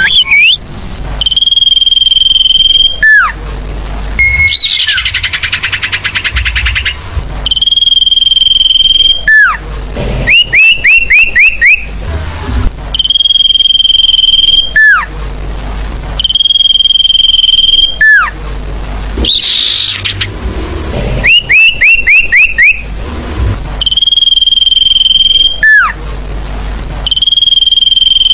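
Sirfu bird lure call, played as a loud repeating recording. It alternates long steady whistles of about two seconds, each ending in a quick downward slur, with quick runs of about five rising chip notes, and has one buzzy trill about five seconds in.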